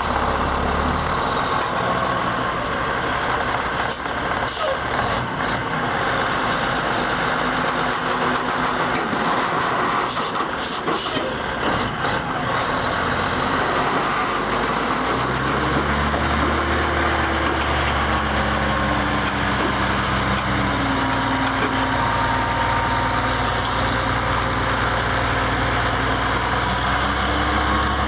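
Heavy truck diesel engine running under load amid road noise. From about halfway through its drone grows stronger and steps up and down in pitch as it works.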